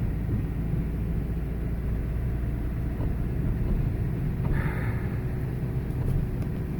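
Car running with a steady low engine and road rumble, and a brief hiss about halfway through.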